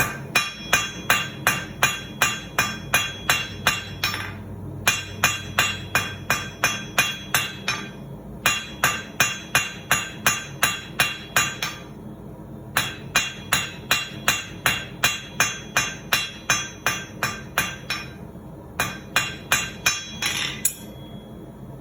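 Blacksmith's hand hammer striking hot quarter-inch round steel bar on an anvil in quick, even blows about three a second, drawing a point and rounding off the corners of the taper. The blows come in runs broken by four short pauses and stop shortly before the end, each blow with a bright metallic ring.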